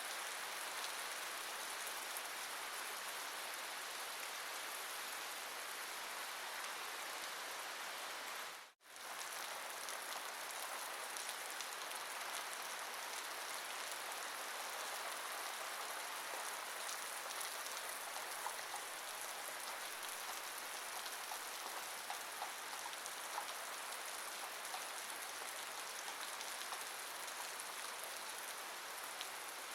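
Steady rain falling: an even hiss with scattered faint drop ticks. It drops out for a split second about nine seconds in and comes straight back.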